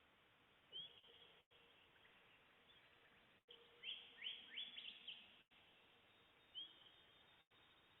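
Faint songbird calls: a short rising note about a second in, repeated near the end, and a quick run of about five falling chirps in the middle.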